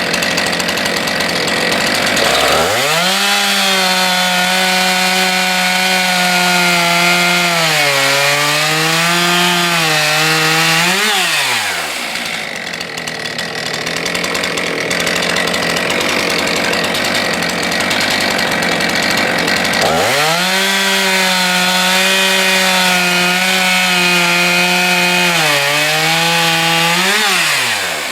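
Stihl MS 441 C-M M-Tronic two-stroke chainsaw making two cuts through wood. Each time it revs up to full throttle and its pitch sags as the chain works through the cut. It then rises sharply as the chain breaks free and drops back toward idle between the cuts.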